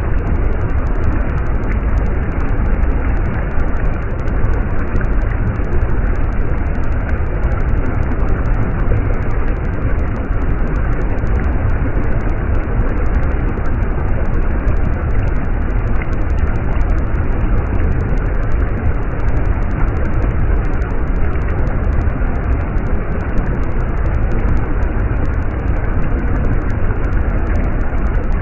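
Stream water running: a steady, unbroken rush with a deep rumble underneath.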